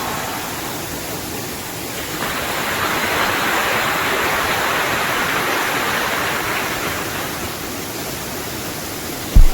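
Steady rush of falling water, swelling for a few seconds and then easing. One short, deep thump comes just before the end.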